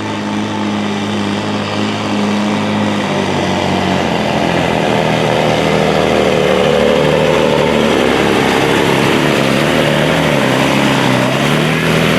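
Diesel engine of a sport-class pulling truck running hard under load during a pull. It grows louder over the first few seconds, then holds steady.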